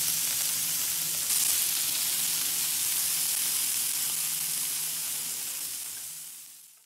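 Paneer cubes sizzling in oil on a hot tawa, a steady frying hiss that fades out near the end.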